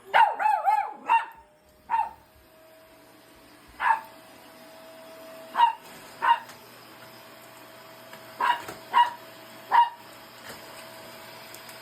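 Poodle barking at a vacuum cleaner: a quick flurry of barks at the start, then single sharp barks every second or two. A steady hum from the running vacuum lies underneath.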